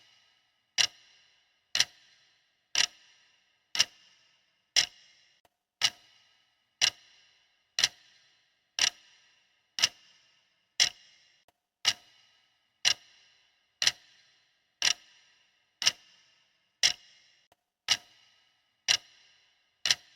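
Clock ticking steadily, one sharp tick a second, each with a short ringing tail.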